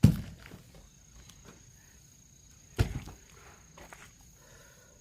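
Two heavy axe blows striking a firewood log, about three seconds apart, each a sharp thud with a short ringing tail; the first is the louder.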